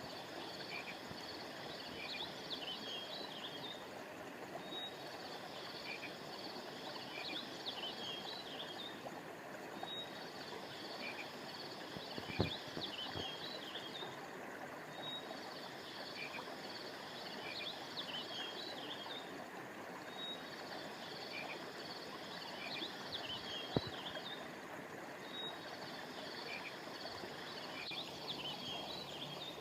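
Steady rush of a flowing stream under high chirps and trills that come in a group about every five seconds, the same pattern over and over. Two brief sharp knocks stand out, about twelve seconds apart.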